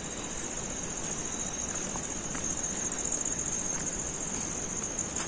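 Crickets chirping, a steady high-pitched trill, over a low background hiss.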